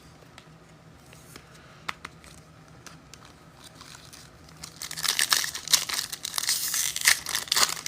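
Foil wrapper of a football trading-card pack being torn open and crinkled. The crinkling starts about five seconds in, after a couple of faint clicks.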